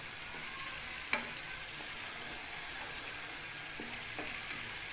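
Curry masala sizzling steadily as it is fried down in oil in a frying pan and stirred with a slotted spoon, the bhuna stage of a kofta curry. A single sharp tap sounds about a second in.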